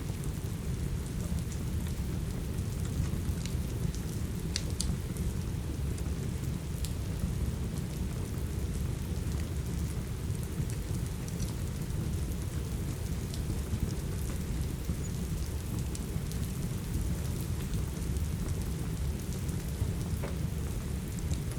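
Steady rain with a deep, even rumble, and a wood fire crackling with a few scattered sharp pops.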